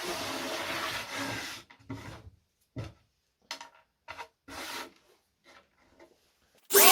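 Rubbing strokes on wood: one long stroke of about a second and a half, then a run of short strokes with pauses between them. Music starts right at the end.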